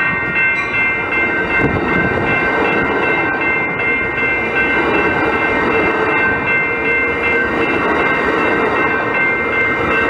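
Railroad cars of a train rolling past, a steady loud rumble and rail noise with a thin, steady high-pitched tone running through it.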